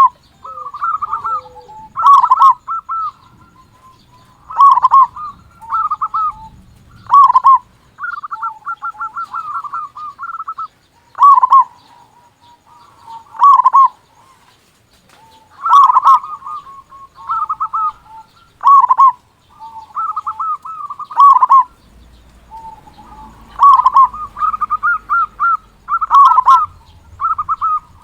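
Zebra dove (perkutut) singing its cooing song: phrases of quick, stuttering coos, one every second or two, some drawn out into long rapid trills.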